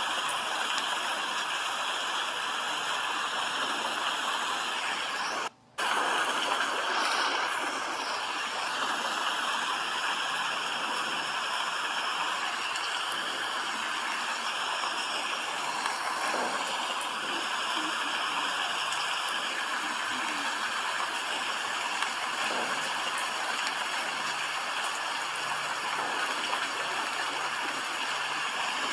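Steady, even rain noise that goes briefly silent about five and a half seconds in, then resumes.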